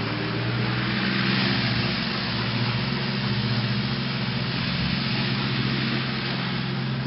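International farm tractor running steadily while mowing with a Woods mowing deck: an even engine drone with a strong low hum, under a broad hiss from the mower.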